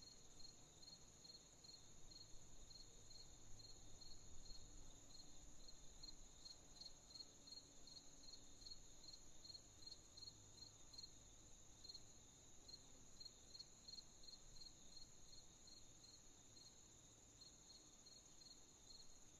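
Faint crickets chirping: a steady high-pitched trill, with a second, lower chirp pulsing evenly about three times a second.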